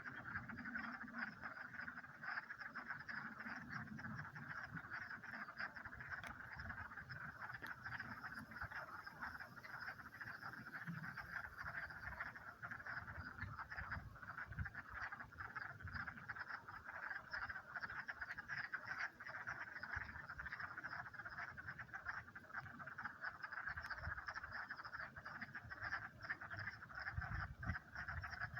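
A dense chorus of frogs calling in a vernal pond in mating season: many overlapping calls merge into one continuous sound, with an uneven low rumble underneath.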